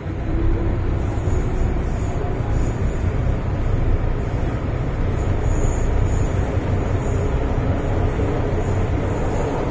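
Hong Kong MTR M-Train electric multiple unit running, heard from inside a passenger car: a steady rumble of wheels on rail and running gear.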